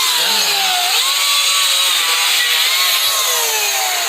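Chainsaw running hard while cutting through a fallen tree limb. Its engine pitch sags as the chain bites into the wood, picks back up about a second in, then sags again.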